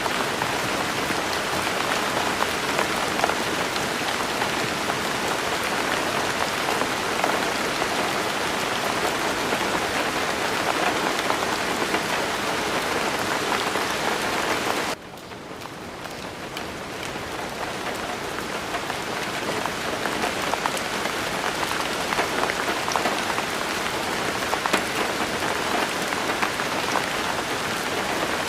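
Steady rainfall, a dense even patter with scattered individual drops. About halfway through it drops abruptly in level and swells back up over several seconds.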